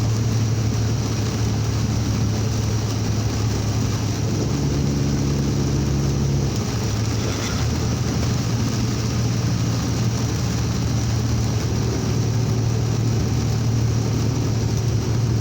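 Vehicle engine droning steadily under a heavy wash of tyre, rain and wind noise while driving through a heavy rainstorm. The engine note shifts briefly about four to six seconds in.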